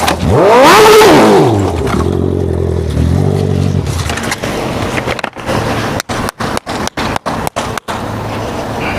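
Motorcycle engine revving hard about a second in, its pitch sweeping up and down, then running lower with a rough noise. Near the end the sound drops out sharply about seven times in quick succession.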